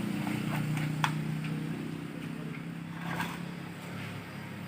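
Steady low machine hum, fading slightly, with a few light clicks near the start and again about three seconds in.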